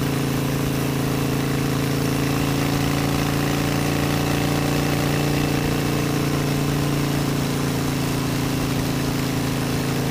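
Harley-Davidson Sportster 72's air-cooled 1200 cc V-twin engine running at a steady highway cruise, its pitch nearly constant, over a steady rush of noise.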